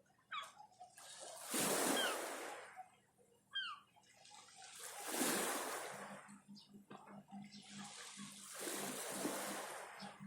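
Sea waves washing onto the shore, three surges that swell and fade a few seconds apart.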